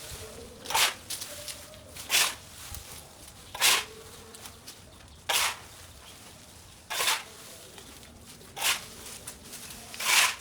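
Seven short scraping, swishing strokes at an even pace, about one every one and a half seconds: a hand tool working through overgrowth or debris.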